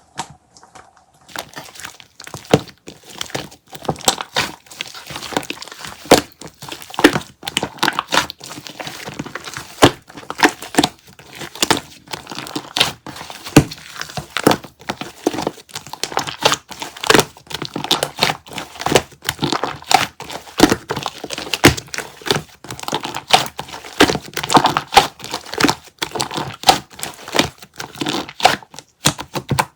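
Dense, irregular crinkling and crackling, many sharp clicks with no steady rhythm.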